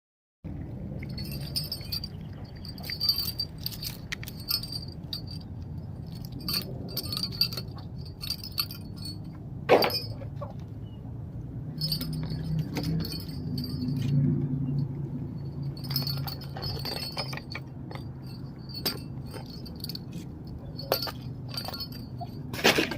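A small metal jingle bell rattling and ringing in short, irregular bursts as kittens bat it around, with a couple of sharper knocks. A steady low hum runs underneath.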